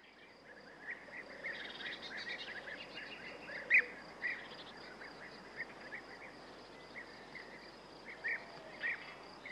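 Birds chirping outdoors: scattered short chirps over a faint steady hiss of background noise, with one louder chirp about four seconds in.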